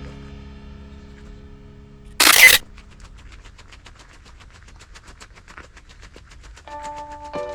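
A camera shutter sound effect: one short, sharp burst about two seconds in, after fading music tones. A faint run of rapid, evenly spaced ticks follows, and music tones start again near the end.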